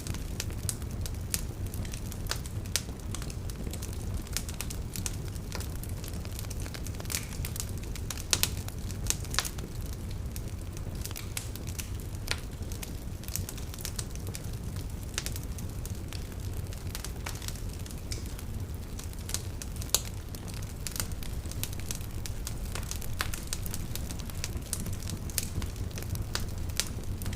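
Beach fire crackling and popping: irregular sharp snaps, a few louder pops about eight, nine and twenty seconds in, over a steady low rumble.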